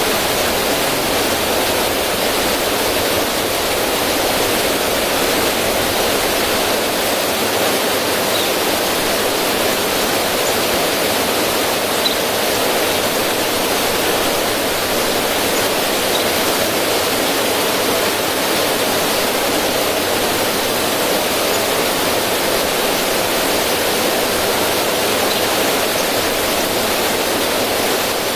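River water running and splashing over rocks in a small cascade: a steady, even rushing.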